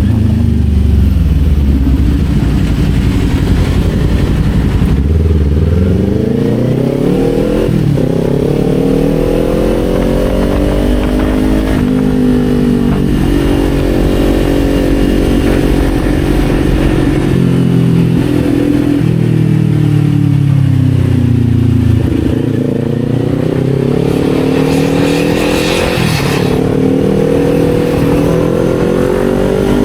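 Kawasaki Z400's 399 cc parallel-twin engine under way, revs climbing and falling as the bike accelerates and eases off, with a few brief breaks in pitch at gear changes. The revs dip for a few seconds past the middle, then climb again.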